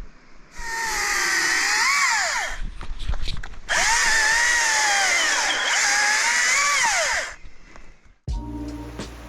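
Electric power saw cutting wood in two runs, one of about two seconds and one of about three and a half seconds. Its motor whine drops and rises in pitch as it works through the wood. Background music begins near the end.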